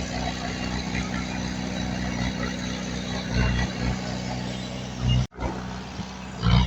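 Diesel engine of heavy earthmoving machinery running steadily, with a few low surges in power. The sound breaks off sharply for a moment about five seconds in, then picks up again.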